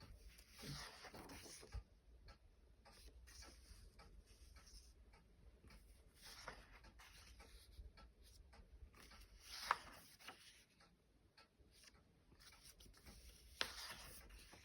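Faint rustling of paper pages in a book being turned and handled, with two short sharp clicks, about ten seconds in and again near the end.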